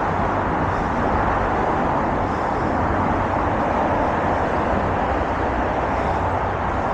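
Steady roar of freeway traffic from directly overhead, heard from under an on-ramp: a constant wash of tyre and engine noise with a deep rumble.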